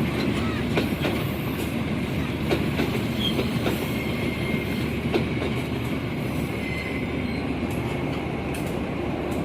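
A train's carriages rolling past close by, a steady rumble with scattered clacks of wheels over rail joints and a faint thin squeal from the wheels.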